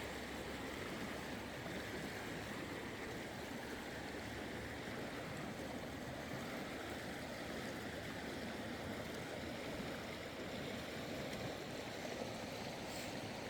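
Klamath River water running, a steady rush of flowing water.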